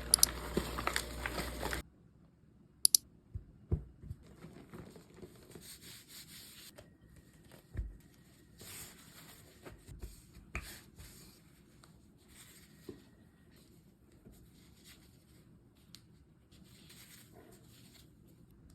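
Lunch-packing handling noises: rustling and tearing with a few sharp clicks and knocks, loudest in the first two seconds and faint after that.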